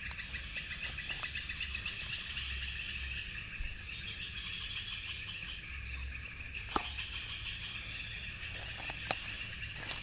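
Steady chorus of night insects, crickets and similar, with a fast pulsing trill high up. Two sharp clicks break it, one about seven seconds in and one about nine seconds in.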